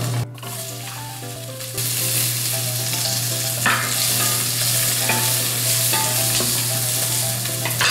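Diced onion and minced garlic sizzling in hot oil in a stainless-steel pan as they are stirred. The sizzle jumps up about two seconds in, then holds steady.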